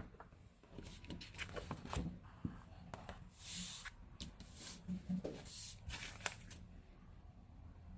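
Sheets of paper rustling and sliding, with scattered light taps and clicks, as things are handled on a desk.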